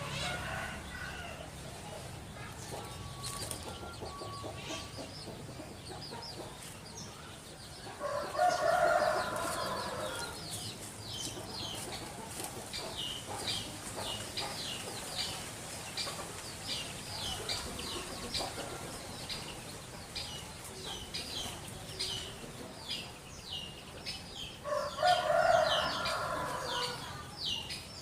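Two long, loud bird calls, one about eight seconds in and one near the end, over a small bird's quick, high chirps repeated several times a second.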